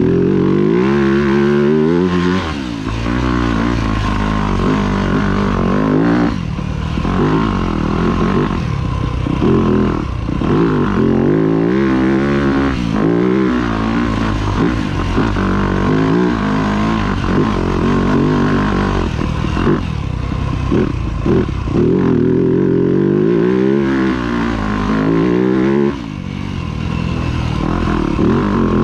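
A 2025 Yamaha YZ250F's single-cylinder four-stroke engine being ridden hard, revving up and down continuously as the throttle is worked. It drops away briefly a few times where the throttle is shut off.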